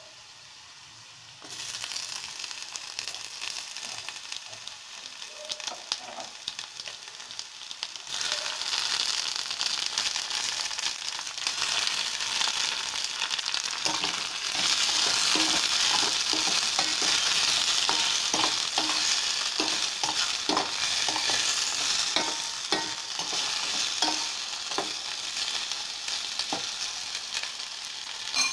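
Sliced onions and chopped tomatoes sizzling in hot oil in a stainless-steel pan, while a metal spoon stirs them, clinking and scraping against the pan. The sizzle starts about a second and a half in and grows louder about a third of the way through.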